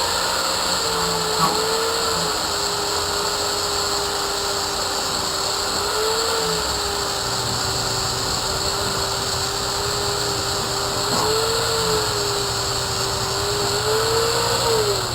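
Angle grinder with a flap disc polishing a mild steel bar in back-and-forth strokes: a steady motor whine over grinding hiss, the pitch sagging under load and rising a few times as the pressure comes off. Near the end the grinder winds down.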